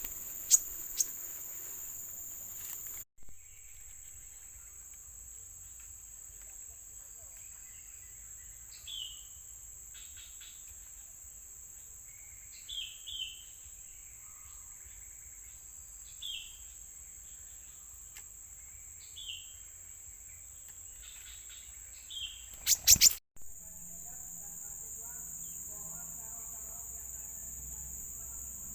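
A steady, high-pitched drone of crickets or other insects. Over it a small bird gives short, falling single chirps every few seconds. There are two sharp clicks near the start and a loud brief burst of noise about 23 seconds in.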